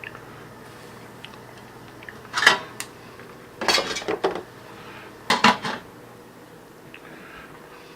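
Cutlery clinking and scraping against a plate during a meal, in three short bursts of clatter.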